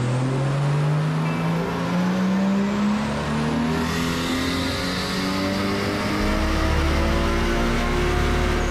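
Turbocharged Nissan RB20 straight-six pulling under load, its revs climbing steadily. A low rumble builds about six seconds in.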